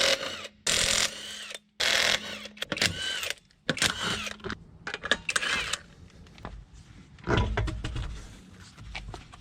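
Floor jack being pumped to lift the car: about five loud, squeaky mechanical strokes in the first six seconds, then a lower rumble near the end.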